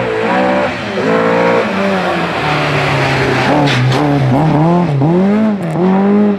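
Rally car engine, out of sight, revving hard, its pitch climbing and dropping back again and again through gear changes and lifts. A few sharp crackles come about three and a half seconds in.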